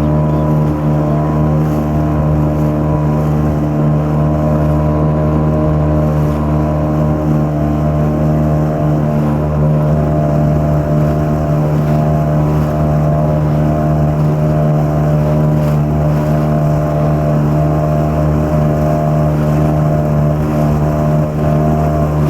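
Yamaha 5 CMHS two-stroke outboard motor running at a steady throttle, pushing a heavily loaded inflatable boat, with the even drone of the engine holding the same pitch and level throughout.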